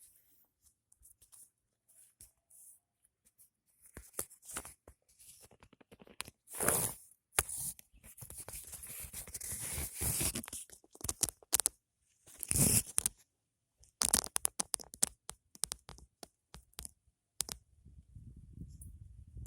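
Leaves and twigs rustling, scraping and crackling in irregular bursts as branches are handled to get at a nest, with a few sharp snaps.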